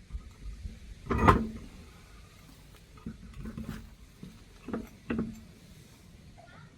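Handling knocks from car parts and tools being worked on: one sharp clunk about a second in, then a few lighter knocks.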